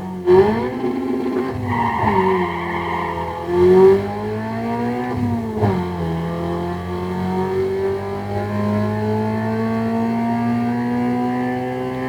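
Car engine under acceleration, its pitch climbing and then dropping sharply twice, as at gear changes, followed by a long, slow steady climb in pitch.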